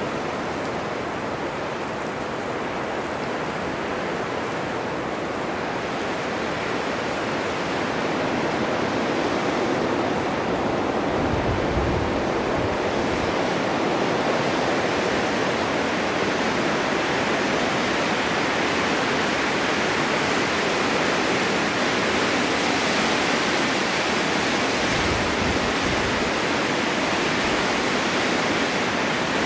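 Snowstorm wind blowing steadily as a dense hiss. It grows louder about eight seconds in, and twice there is a short low rumble.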